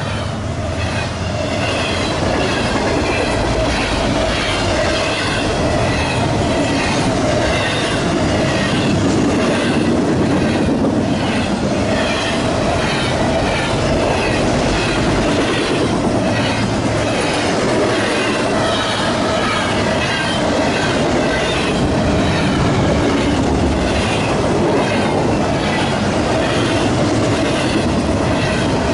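Freight train rolling past, its steel wheels clacking over the rail joints in a steady repeating rhythm, with a continuous high wheel squeal.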